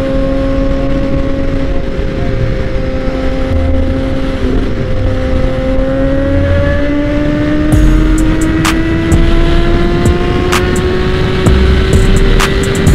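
Suzuki GSX-R sport bike's inline-four engine running at highway speed under heavy wind and road noise. Its note holds steady, dips briefly about four seconds in, then rises slowly through the second half as the bike accelerates. A few sharp clicks come near the end.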